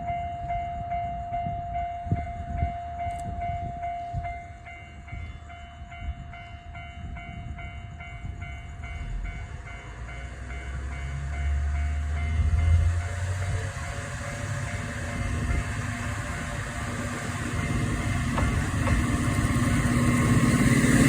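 KiHa 40 diesel railcar's engine rumbling, getting steadily louder over the last half. A steady high tone sounds at the start and fades out after several seconds.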